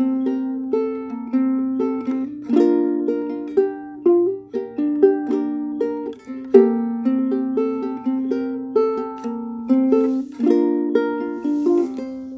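A ukulele played solo: a fingerpicked melody over plucked chords, each note struck cleanly and left to ring out.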